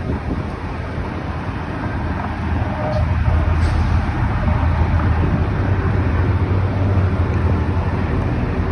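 A motor vehicle's engine running with road and traffic noise, a steady low drone that grows louder about three seconds in.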